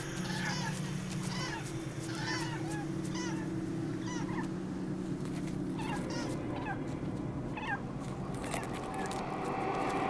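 Birds giving short, repeated chirping calls, about two a second at first and more scattered after about five seconds, over a low steady hum.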